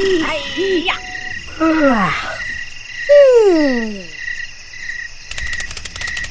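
Night-time sound effects: a steady, evenly pulsing cricket chirring throughout, with a few short low calls at the start. Two long, falling whistle-like glides follow, and a quick run of clicks comes near the end.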